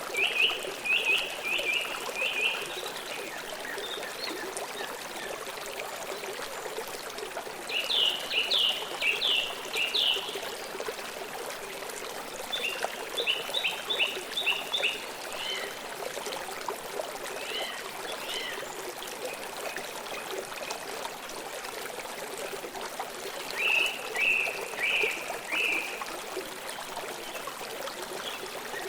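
River water flowing steadily, with a bird singing short bursts of quick, high chirping notes, about five phrases spaced several seconds apart.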